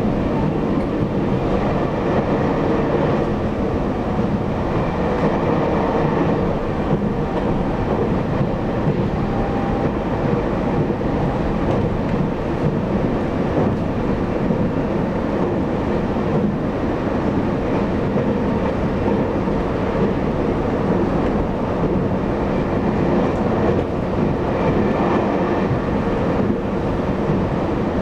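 Running noise of a Taiwan Railways EMU800 electric multiple unit heard from inside the car: a steady rumble of wheels on track and traction equipment at speed, with faint steady tones over it.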